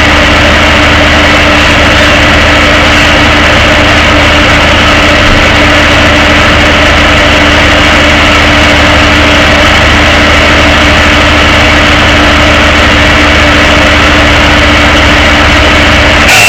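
Tow truck's engine running with a steady low drone. The sound changes abruptly just before the end.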